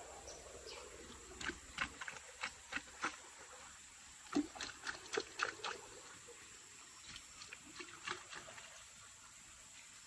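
A run of irregular sharp clicks and taps, densest in the first half and fainter later, over a faint steady hiss.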